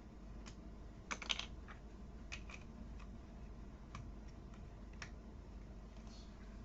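Plastic building pieces being handled and fitted together: scattered sharp little clicks, with a quick rattle of several clicks about a second in.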